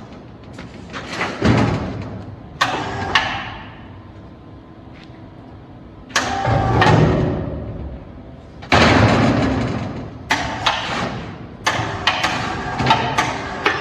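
Steel panels clanging and knocking as they are handled and fitted together, a string of sudden metal blows, several ringing on for a second or more.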